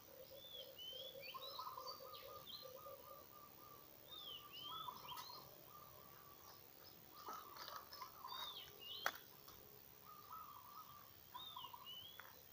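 Faint birdsong: several birds repeating short swooping whistled notes over lower pulsing trills. A single sharp click comes about nine seconds in.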